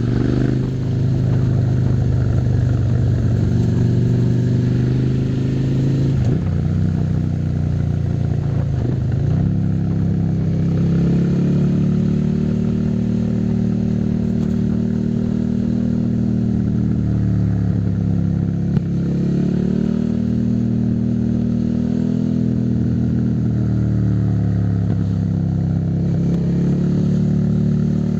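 Suzuki SV650's 645 cc V-twin engine running under way, its note rising and falling several times with the throttle.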